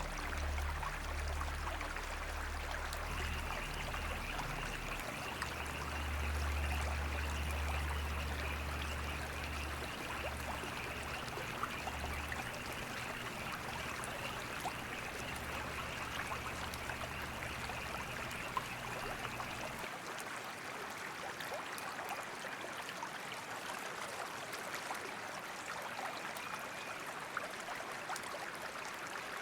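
Steady flowing water, like a small stream trickling over rocks, with low steady tones underneath that stop about two-thirds of the way through.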